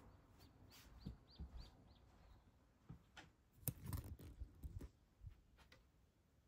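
A small bird calling: a quick run of about seven short, high chirps in the first two seconds, faint against near silence. Later come a few soft knocks and bumps.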